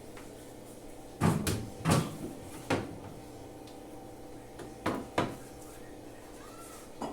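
Sharp knocks and clunks of a refrigerator's doors, shelves or containers being handled: four in quick succession early on, two more near the middle, and a light one at the end.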